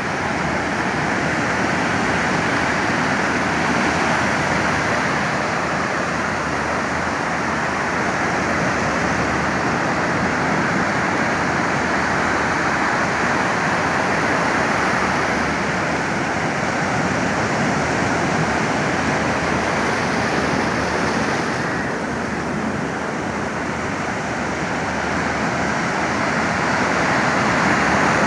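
Surf of a stormy sea breaking on a beach: a steady wash of waves that swells a little louder near the end.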